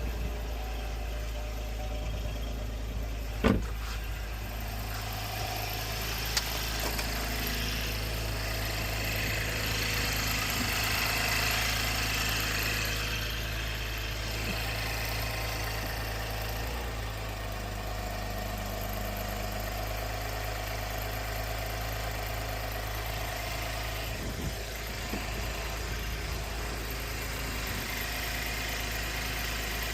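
2017 Chevrolet Camaro's 3.6-litre V6 idling steadily after a thermostat and coolant sensor replacement, running with its cooling system freshly refilled to the cold fill line. A sharp click comes about three and a half seconds in, and a rushing sound swells and fades in the middle.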